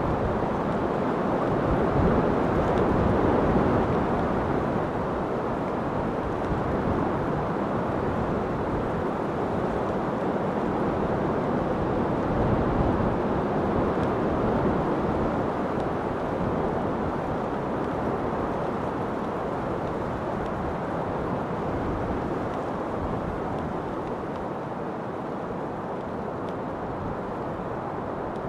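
Steady wind blowing: a continuous rushing noise, heaviest in the low and middle range, with gentle swells that ease slightly toward the end.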